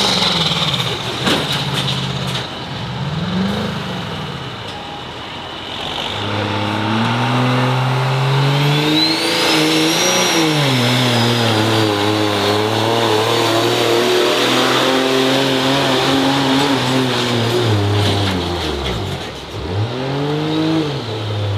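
Diesel pickup truck engine at a truck pull, revving up and then holding high, steady revs, with a high turbo whistle that rises about nine seconds in and slowly falls. The engine drops off near the end and revs briefly once more.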